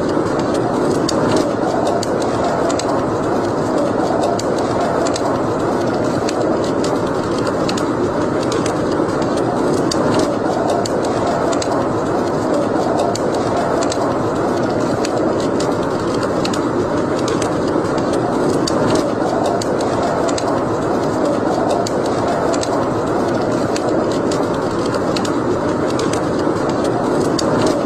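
Wood fire burning in a fireplace, with irregular sharp crackles and pops over a steady rushing noise that swells and fades slowly.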